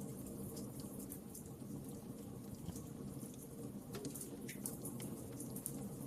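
Wood fire crackling in a fireplace: scattered sharp pops and snaps over the steady low rumble of the flames, the pops coming more thickly about four seconds in.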